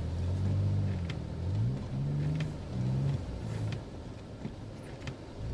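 Vehicle engine revving, its pitch rising and falling several times over the first three seconds or so before it drops back, with a few sharp clicks.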